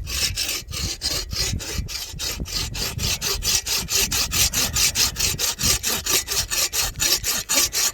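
Sven Saw folding bow saw cutting through juniper wood, its steel blade rasping back and forth in quick, even strokes.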